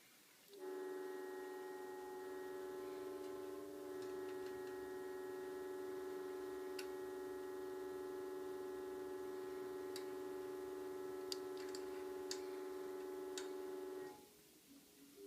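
Odd steady hum from a home heating system: several pitches held dead steady, starting about half a second in and cutting off about a second before the end. A few faint ticks sound over it.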